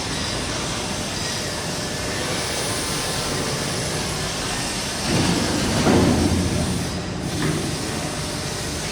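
A 3 kW CNC fiber laser cutting machine running, a steady hissing noise, with a louder low rumble about five seconds in that lasts a second or so.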